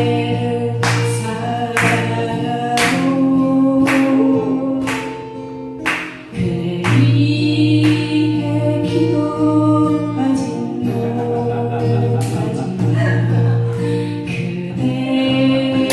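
A group of voices singing a song together to strummed acoustic guitar, with a sharp chord stroke about once a second.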